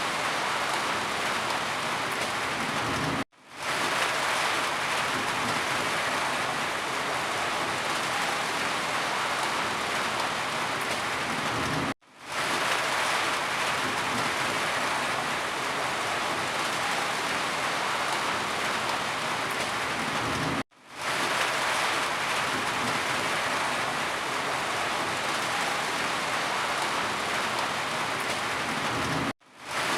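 Steady rain, a dense even hiss. Four times, about every nine seconds, it cuts out suddenly and fades back in within about half a second.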